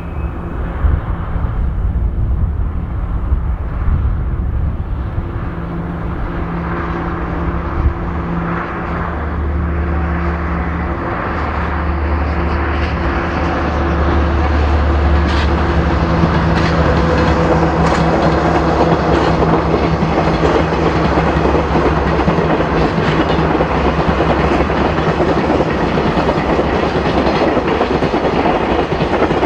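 A JR Freight DD51 twin-engine diesel-hydraulic locomotive hauling a freight train passes: the deep drone of its diesel engines swells and holds for several seconds, then the freight wagons clatter steadily over the rail joints, the clatter growing louder toward the end.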